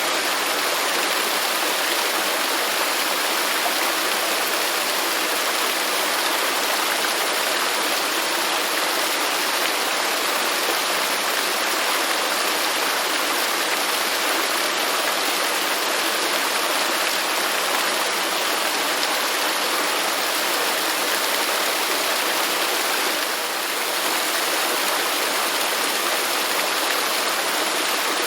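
Waterfall: a steady, even rush of falling water, with little low rumble.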